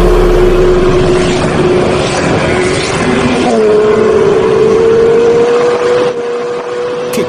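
Motorcycle engine running at steady revs under a rush of wind noise, its pitch stepping up slightly about three and a half seconds in as it picks up speed.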